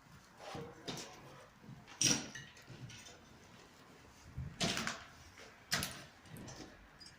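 A series of sharp knocks and clatters with some scraping between them, about five in seven seconds; the loudest comes about two seconds in.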